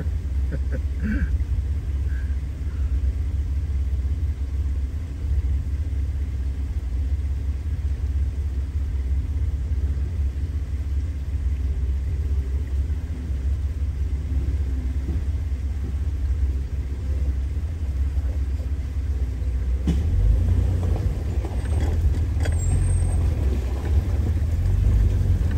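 Jeep Wrangler TJ engine running at low speed with a steady low rumble, heard from inside the cab. About 20 seconds in it grows louder and rougher as the Jeep starts creeping forward through the rocky creek bed.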